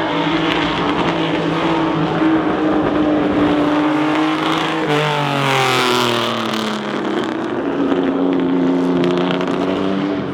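Sports car engines running. About halfway through, one engine's pitch jumps up and then falls steadily over a couple of seconds, as a car drives past.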